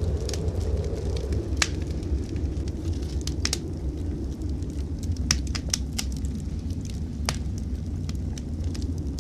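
Wood fire in a fireplace crackling, with sharp, irregular pops and snaps over a steady low rumble.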